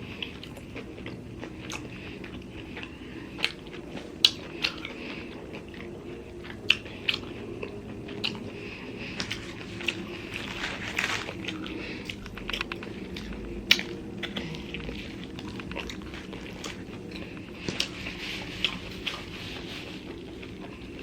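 Close-up eating sounds of a person biting and chewing a Philly roast-beef sub sandwich, with many short wet mouth clicks and smacks.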